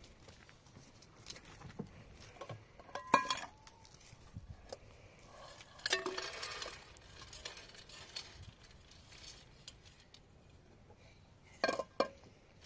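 Scattered clinks and knocks of kitchenware being handled, with louder clatters about three seconds in, around six seconds, and near the end.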